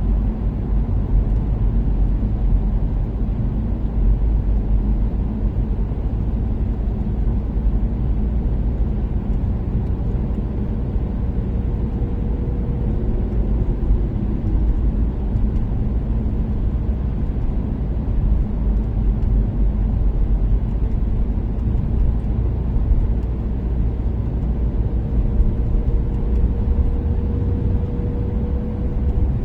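Toyota Caldina's turbocharged 3S-GTE four-cylinder cruising at steady speed under road and tyre rumble, with a faint whine that slowly rises in pitch over the second half.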